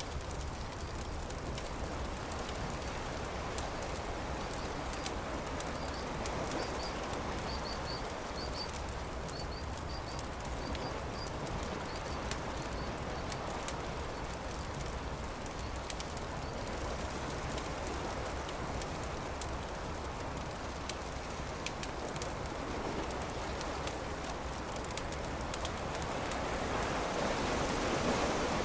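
Campfire crackling with scattered sharp pops over a steady wash of surf, which swells louder near the end.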